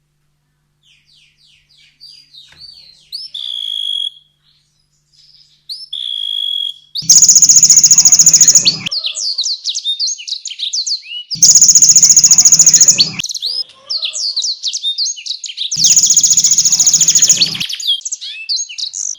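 Canary singing a fast, varied song: runs of quick slurred high notes broken by three loud, rapid trills, each about two seconds long.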